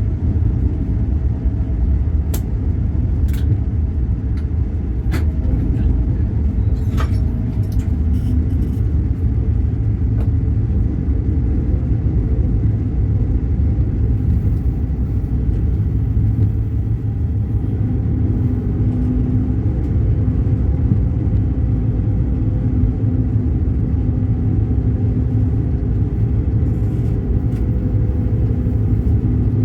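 Steady low rumble of a moving vehicle, with a few sharp clicks and knocks during the first ten seconds.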